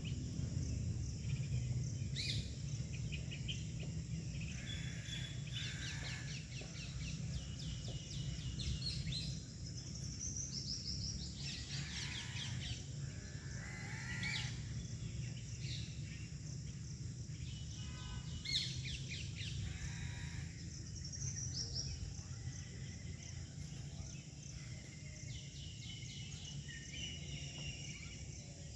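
Birds chirping and trilling on and off over a steady low background rumble, with one sharp click about two-thirds of the way through.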